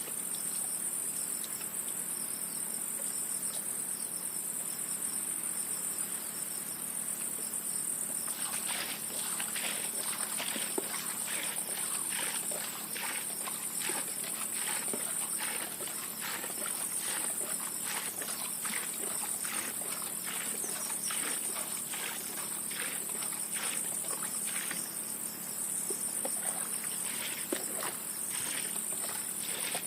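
A steady, high-pitched chorus of insects such as crickets or cicadas. From about a quarter of the way in, a series of short, soft scraping or rustling strokes comes every half second or so.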